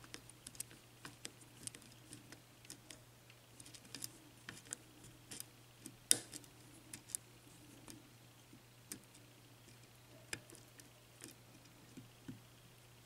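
Faint, irregular metallic clicks and ticks of a lock pick working the pins of a six-pin Yale mortice lock under light tension, with one sharper click about six seconds in.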